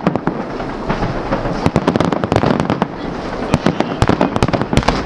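Fireworks salute going off: a dense, irregular run of sharp bangs and crackles in quick succession.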